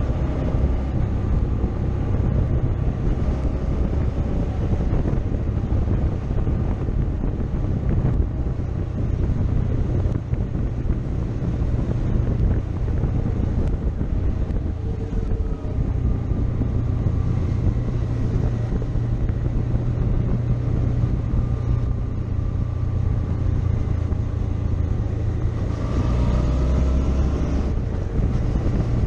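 Motorcycle engine running while riding, under a steady low rumble of wind on the microphone, the engine note rising and falling a few times.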